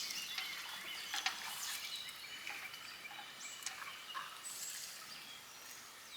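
Faint clicks and scrapes of a utensil breaking up mac and cheese in a pan, with birds chirping in the background.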